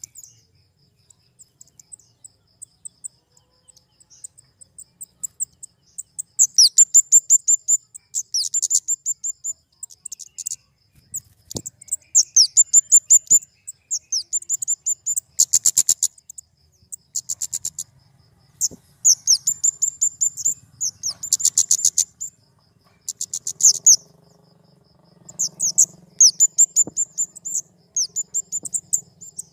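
Flowerpecker (kemade) calling: rapid runs of thin, very high-pitched ticking chips, each run lasting a second or two. The calls are sparse for the first several seconds, then come in quick succession. A faint, steady high whine runs underneath.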